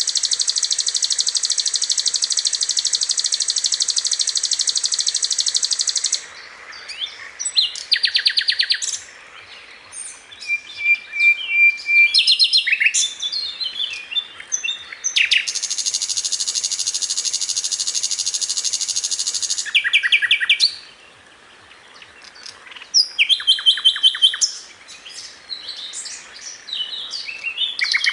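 Sikatan londo flycatcher song: long, high buzzing trills held for several seconds, broken up by quick chipping runs and short whistled notes.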